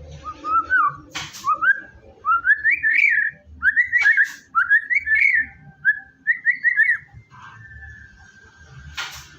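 White-rumped shama (murai batu) singing: quick groups of short rising whistled notes, then one long steady whistle about seven seconds in, with a few sharp clicks.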